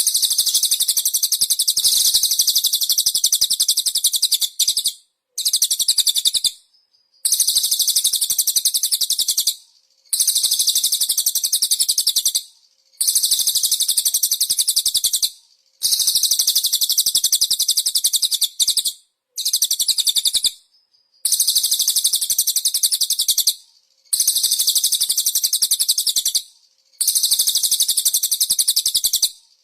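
Birdsong training recording for white-rumped shamas: a small songbird's rapid, very high-pitched chattering trill, repeated in bouts of two to three seconds with short breaks between them.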